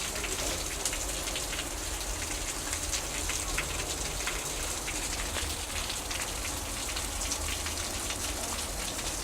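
Heavy rain falling steadily, with a dense patter of drops hitting surfaces and a low steady rumble underneath.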